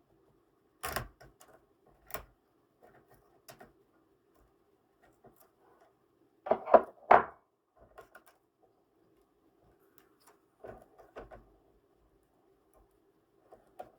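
Scattered clicks and knocks of laptop parts being handled during disassembly, with a quick run of three louder knocks about halfway through.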